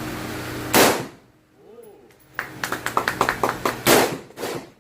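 Two loud gunshots from a firearm, about a second in and about three seconds later, each with a short ring-out. Between them comes a quick run of sharper, lighter clicks and clanks, and a steady hum runs under the first second.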